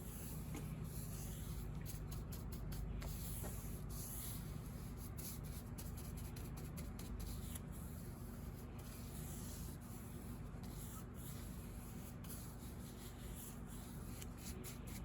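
A bristle brush working thin shellac into the carved rope molding of an antique piano case, a soft steady scrubbing that melts and amalgamates the old shellac finish. A steady low hum runs underneath.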